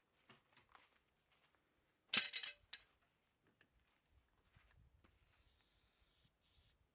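A sharp clatter of hard objects knocking together, loud and brief about two seconds in with a short ringing note, then one more small click; a few light knocks come before it.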